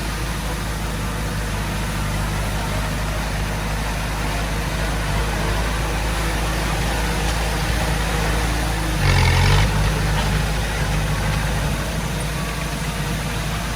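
Heavy-equipment diesel engine running steadily, with a brief louder burst about nine seconds in.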